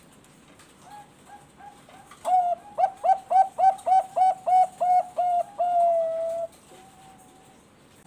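Zebra dove of the Thai 'Bangkok' song strain (perkutut bangkok) singing. A few soft coos lead into a fast run of about ten loud, clipped coos, roughly three a second, which ends in one long held coo.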